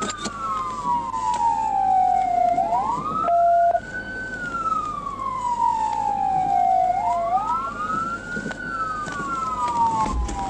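Two emergency-vehicle sirens wailing slightly out of step, each falling slowly in pitch over about two seconds and then sweeping quickly back up. There is a short steady beep about three seconds in.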